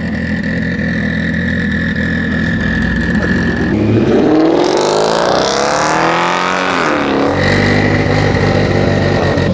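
A performance car's engine idling with a steady high whistle, then revved once about four seconds in, its pitch climbing and falling back over about three seconds before it settles to idle again.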